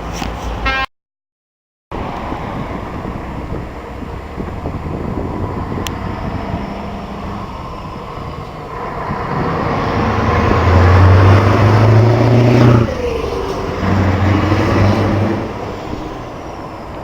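Traffic noise with a heavy truck driving past: its engine drone builds up, drops in pitch as it goes by, and a second engine follows shortly after. The sound cuts out completely for about a second near the start.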